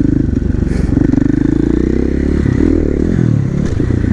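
KTM 450 supermoto's single-cylinder four-stroke engine running under throttle while being ridden. Its pitch swells up and drops back about two-thirds of the way through.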